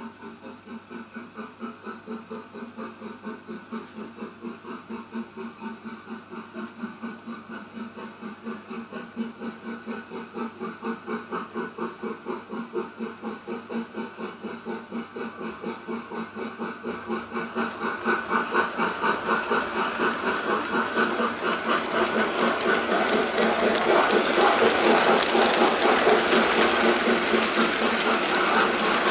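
Jouef 231 K model locomotive and its train of wagons running on model track, with a regular rhythmic clatter. It grows clearly louder from a little past halfway as the train draws nearer.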